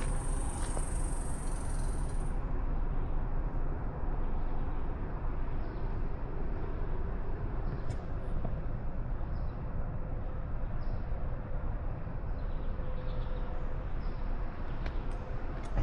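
Steady low rumbling outdoor background noise, with a high thin hiss over it for about the first two seconds.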